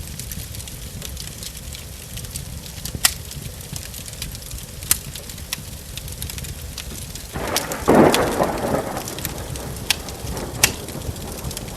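Steady rain with a wood fire crackling and giving a few sharp pops. About seven seconds in, a clap of thunder rumbles for about two seconds and fades.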